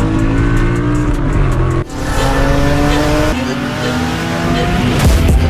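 Ford Mustang GT's 5.0 V8 with a loud aftermarket exhaust accelerating hard, its pitch climbing, with an upshift about two seconds in and another a little after three seconds in.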